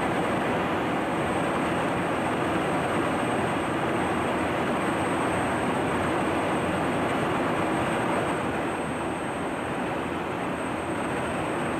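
Fighter jet engines running on the ground: a steady, even rush with a thin, high whine on top, easing slightly about eight seconds in.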